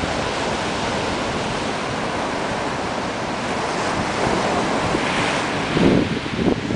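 Ocean surf rolling in and breaking on the beach: a steady rush of wave noise that swells about five seconds in, with wind buffeting the microphone.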